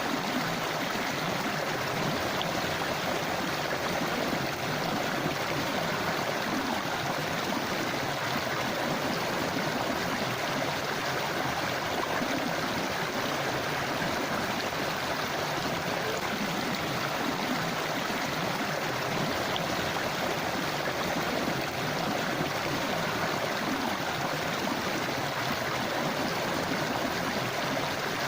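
Forest river or stream flowing over rocks, a steady rushing and gurgling of water with no change in level.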